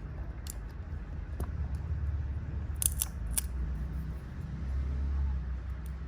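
A handful of light, sharp clicks of small hand tools, three of them close together near the middle, over a low steady hum.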